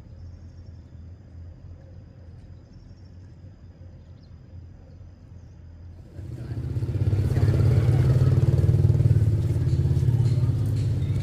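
A vehicle engine running with a low steady hum, which gets much louder about six seconds in, with a rushing noise added.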